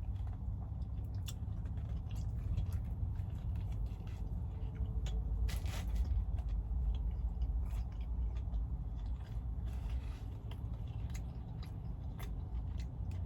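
Close-up chewing and biting into a fast-food sandwich: scattered small crunches and mouth clicks, with a brief rustle about five and a half seconds in, over a steady low hum.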